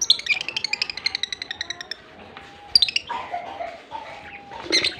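Lovebirds chattering: a rapid run of high chirps, about ten a second, for the first two seconds, then two sharp high calls, one near the middle and one near the end.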